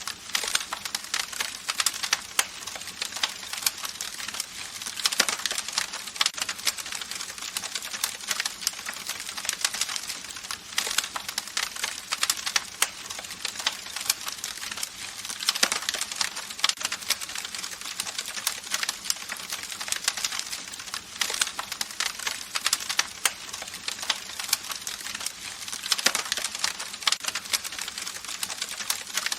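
Campfire crackling: a steady stream of sharp pops and snaps over a soft hiss, with denser flurries every few seconds.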